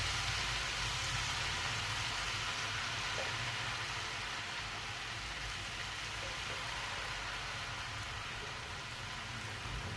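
Tempura batter frying in hot oil, a steady crackling sizzle as the drips of batter turn into tempura flakes, slowly getting a little quieter.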